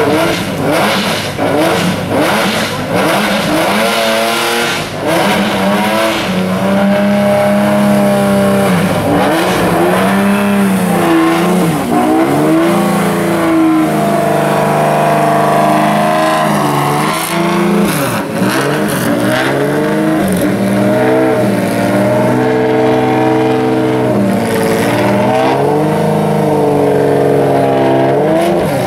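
Ford Supervan 3's Cosworth V8 racing engine running and being revved again and again, its pitch rising and falling with each rev between steadier stretches at a raised idle.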